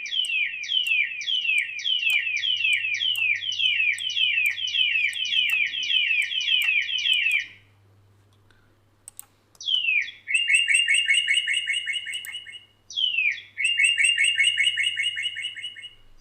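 Bird-call sound effect played back with an analog delay (echo) applied. A fast run of downward-sliding chirps, about four a second, lasts about seven seconds. After a short pause come two phrases, each a falling note running into a buzzy trill.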